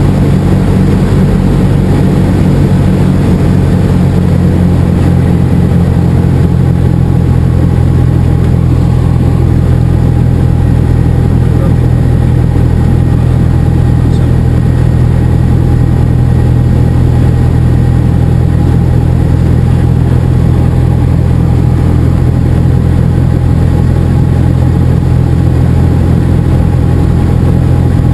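Cessna 172 SP's four-cylinder Lycoming engine and propeller droning at a steady, unchanging power setting, loud and low-pitched.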